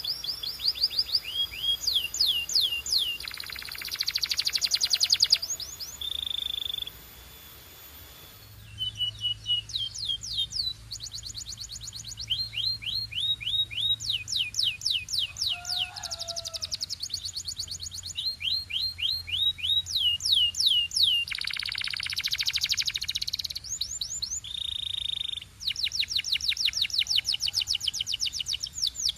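Canary singing: fast trills of repeated high, down-slurred whistled notes, broken by buzzy rolls and short held notes, with a brief pause about seven seconds in.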